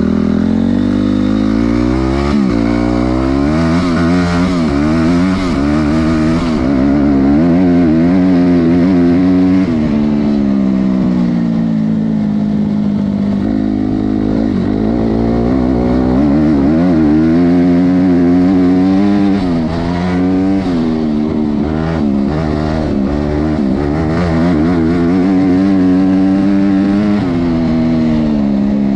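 Honda CRF250R's single-cylinder four-stroke dirt-bike engine under hard throttle, its pitch rising and dropping over and over.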